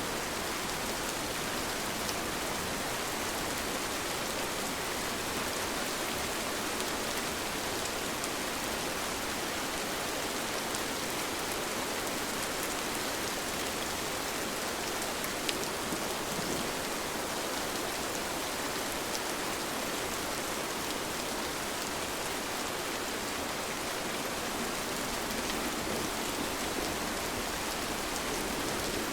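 Steady rain falling, with scattered individual drops ticking on a surface. No music or thunder.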